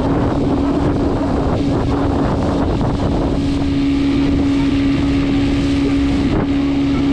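Engine of the motorboat towing a banana boat, running steadily at one even pitch, with wind buffeting the microphone.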